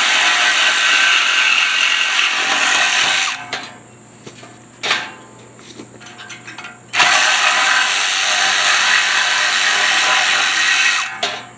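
Power saw cutting through a steel exhaust pipe, in two runs of about four seconds with a pause between and a short knock during the pause.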